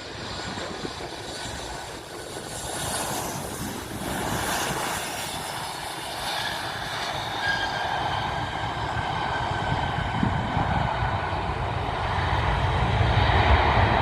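Aircraft engines growing steadily louder as a plane approaches, a broad rushing noise with a faint whine that slowly drops in pitch.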